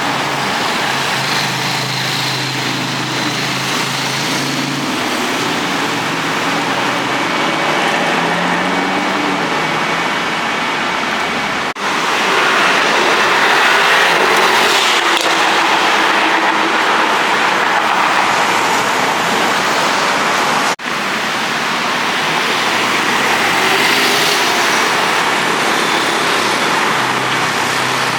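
City street traffic: cars passing with engines running over a steady rush of road and tyre noise. The sound drops out for an instant twice, where the recording is cut.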